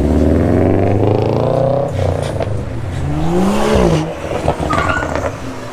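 A car engine revving hard as it accelerates, its pitch climbing, then a second rev that rises and drops away about four seconds in.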